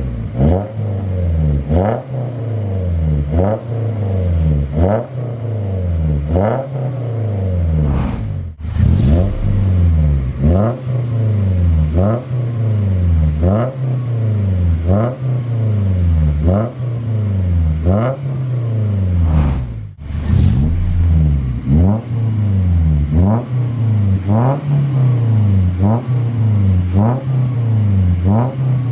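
Daihatsu Gran Max pickup's engine breathing through an aftermarket full-system exhaust (4-2-1 header, straight resonator, DK-03V4 muffler) tuned for a deep, mellow bass note. The engine is blipped over and over, about once every second and a half, each rev rising quickly and falling back. There are two brief breaks in the sound.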